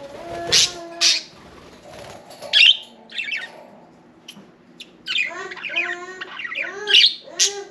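Budgerigars chirping and warbling: scattered quick chirps, then a busier run of short rising-and-falling notes over the last couple of seconds.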